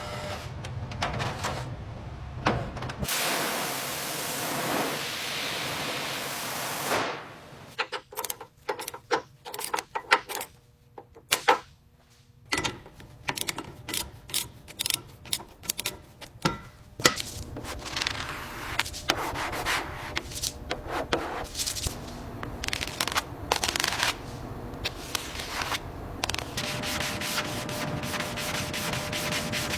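Sanding and rubbing on car bodywork. About three seconds in there is a loud steady hiss lasting several seconds, then a stretch of separate sharp clicks and taps before the steady rubbing resumes.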